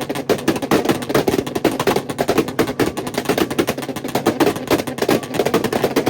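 Car engine held on a two-step launch-control rev limiter, its exhaust popping and cracking in a rapid, unbroken string of bangs, several a second.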